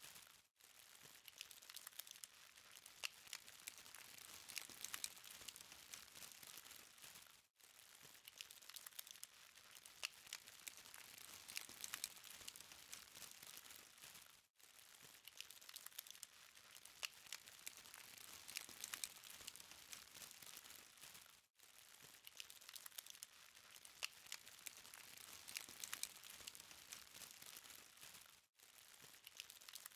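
Charcoal fire burning with faint, steady crackling and many small pops and ticks. The sound cuts out briefly about every seven seconds.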